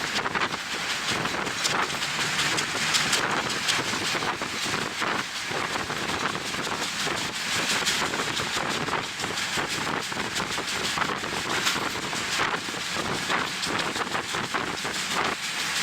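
Wind buffeting the microphone at the open window of a moving train, gusting unevenly over the train's steady running noise.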